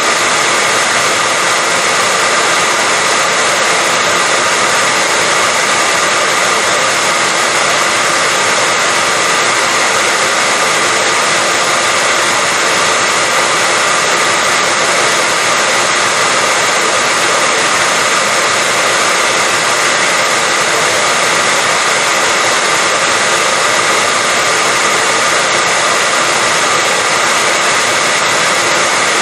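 Hair dryer running continuously at a steady pitch, a constant loud whooshing blow with a faint motor whine.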